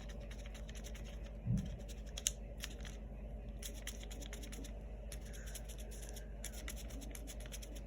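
Paintbrush dabbing and scratching on paper: an irregular run of small ticks and scrapes, with a soft thump about one and a half seconds in.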